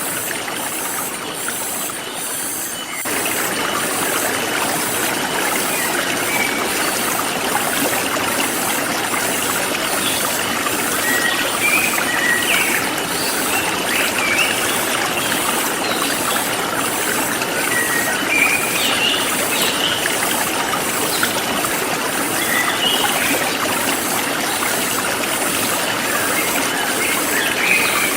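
Forest stream flowing steadily, its rush growing a little louder about three seconds in. Birds chirp briefly now and then over it, and insects keep up a regular high pulsing.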